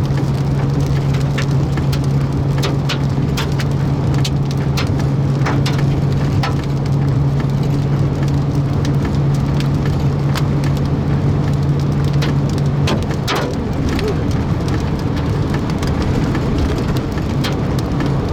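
Heavy rain and hail pounding a vehicle, heard from inside with the front windshield smashed out: a steady roar of rain and wind with scattered sharp hailstone strikes. A steady low hum runs under it and cuts out about thirteen seconds in.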